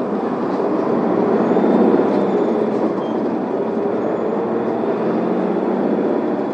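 Isuzu Erga city bus's diesel engine pulling away from a stop, heard from inside the passenger cabin. It grows louder over the first two seconds or so, then runs on steadily.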